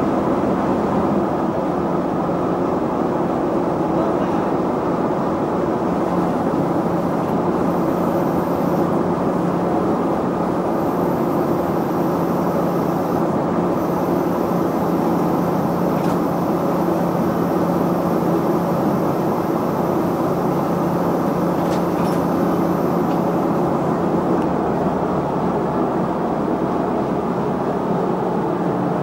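Diesel engine of farm machinery running steadily at constant speed, under a continuous even hum.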